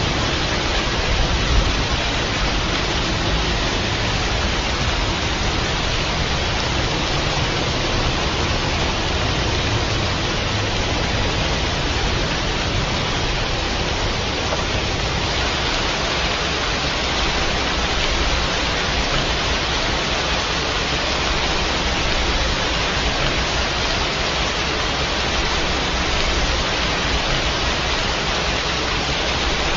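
Steady rain, an even, unbroken hiss of falling water.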